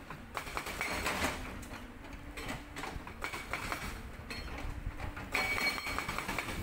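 Cat 320D excavator working with a Sangdo SD220 hydraulic rock breaker: rapid mechanical rattling and clatter over the diesel engine's steady hum.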